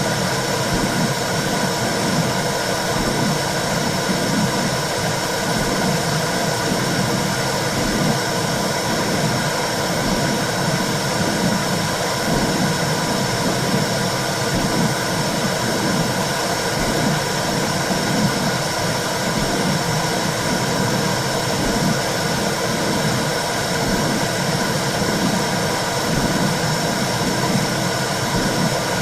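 Womb-sound recording for soothing a baby: a steady whooshing hiss with a low, rhythmic pulse underneath that repeats about once a second.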